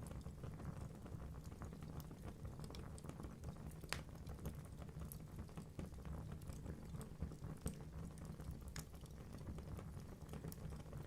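Wood fire burning in a fireplace: a steady low rush of flames with irregular crackles and pops from the logs, one sharper pop about four seconds in and a few more later.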